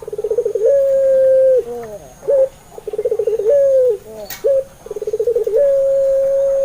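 Puter pelung, a domestic Barbary dove bred for its long coo, cooing in three repeated phrases. Each phrase is a quick rolling trill, then one long held coo that drops at its end, then a short clipped note.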